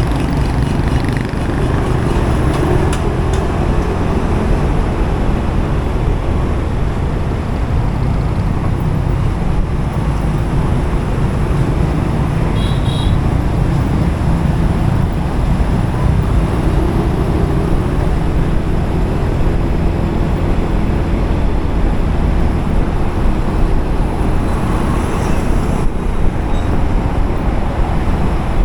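Steady road-traffic noise heard from a moving motorcycle: engines running and tyre and wind rumble, heaviest in the low end.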